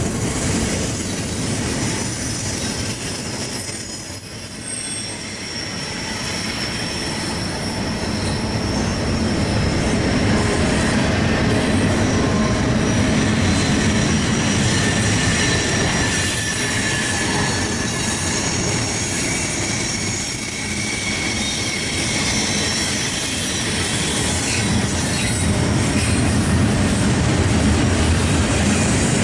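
Freight train cars rolling past on the rails, a steady heavy rumble with high, wavering wheel squeal over it.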